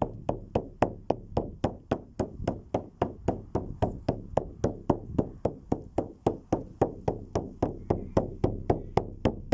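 A steady, evenly spaced beat of deep knocks, about four strikes a second.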